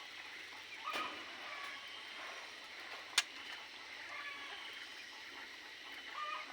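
Small aviary birds chirping faintly against a steady background hiss, with two sharp clicks, one about a second in and one just after three seconds.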